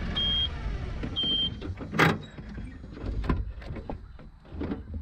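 A motor vehicle engine running, with two short high-pitched beeps in the first second and a half, followed by a series of knocks and clunks; the loudest comes about two seconds in.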